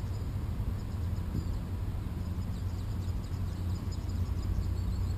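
Steady low rumble of a car driving, with faint high chirps, like birds, on top.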